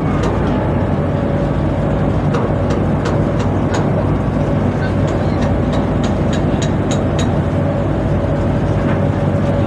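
Tugboat machinery running steadily, a low drone with a constant whine above it, while sharp metallic clicks and knocks come and go, thickest in the middle, from work on the towing rope.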